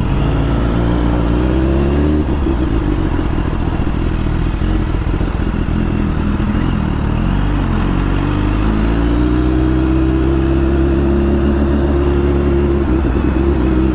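Motorcycle engine running under way, its pitch climbing over the first couple of seconds, sagging around the middle, then rising again and holding steady near the end.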